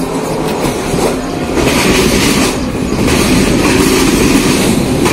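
Mumbai suburban local electric train running, its wheels rumbling and clattering over the rails, getting a little louder partway through.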